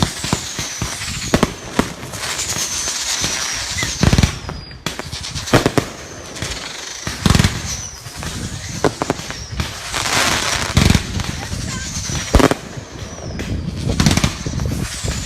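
Fireworks going off: irregular sharp bangs and pops, with high whistles that fall in pitch.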